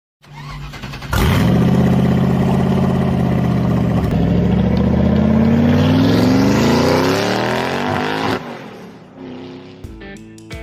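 Car engine at full throttle: a loud steady note that then climbs in pitch as the car accelerates, cutting off suddenly about eight seconds in.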